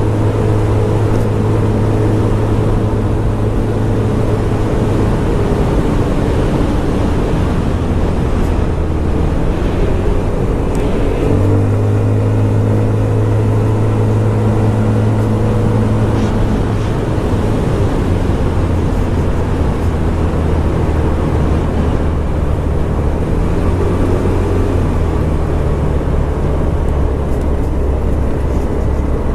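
Scomadi TT125 scooter's 125 cc single-cylinder engine running while riding, with a steady rush of wind and road noise. The engine note drops about nine seconds in, rises sharply a couple of seconds later, then eases down gradually.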